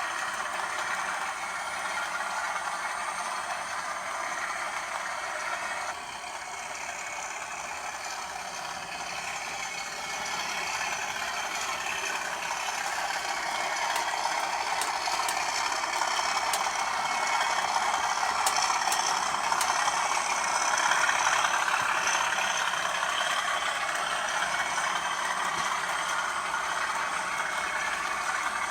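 British Rail Class 37 diesel-electric locomotive's English Electric V12 engine running with a steady rattling drone. It grows louder through the middle, with a few sharp metallic clicks in that louder stretch.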